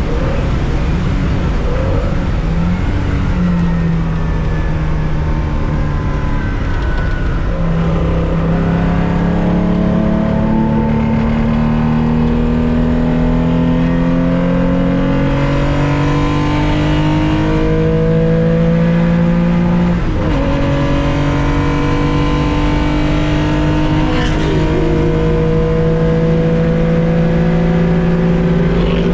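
Air-cooled flat-six engine of a 1965 Porsche 911 2.0 racing at full load, heard onboard. The revs climb steadily from about eight seconds in. The pitch drops at two upshifts, about twenty and twenty-four seconds in, and climbs again after each.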